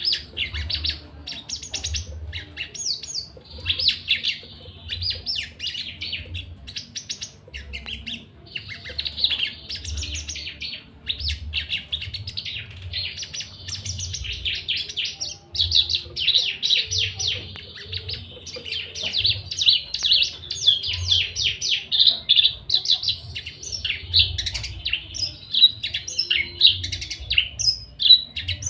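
Javan bush lark (branjangan) singing a long, rapid, continuous song of dense chirps and trills, broken only by short pauses about a third and halfway through. The bird is in full breeding condition and eager to mate.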